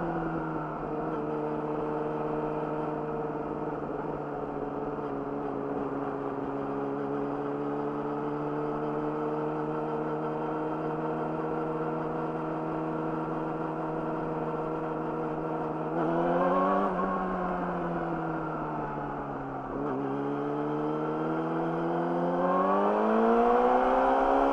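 Yamaha YZF-R6's inline-four engine through an Akrapovic slip-on exhaust, heard while riding. Revs drop and then hold steady at a cruise; about two-thirds of the way in they rise and fall briefly, then climb steadily and get louder as the bike accelerates near the end.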